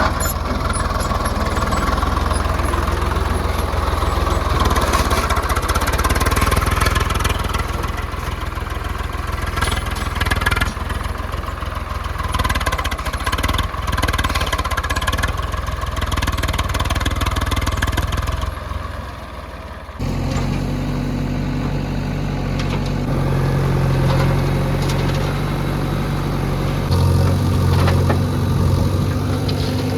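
Heavy diesel engine running under varying load, with the working noise rising and falling. About two-thirds of the way through it cuts abruptly to a steadier, lower engine drone.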